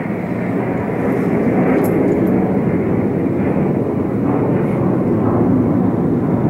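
Jet aircraft flying overhead: a loud, steady rushing engine noise without breaks.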